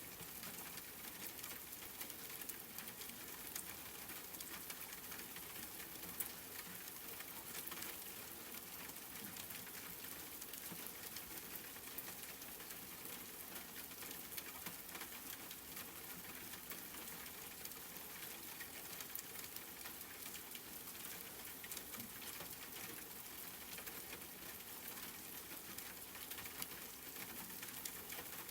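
Steady rain falling: an even hiss of rainfall with many small drop ticks scattered through it.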